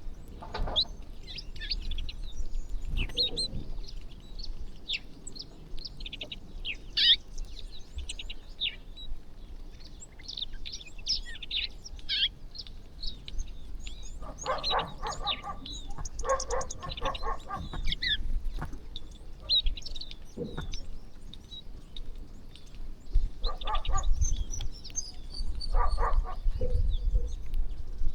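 A flock of small birds chirping constantly while feeding. Louder, harsher, rapidly pulsed calls break in twice: in the middle and again near the end.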